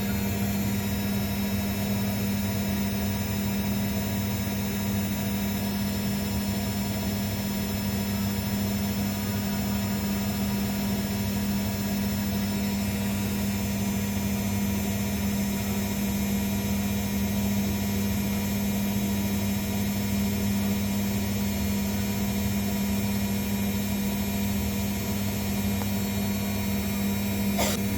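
Zanussi washing machine running with a steady electric hum and whine.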